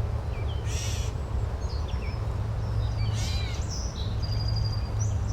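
Birds calling: two arched, harsh calls about two seconds apart, with scattered short chirps and a brief high trill near the end, over a steady low background rumble.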